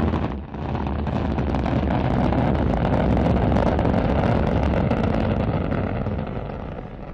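Rocket engine roar at launch, a dense crackling rumble that starts suddenly, holds steady and fades away near the end.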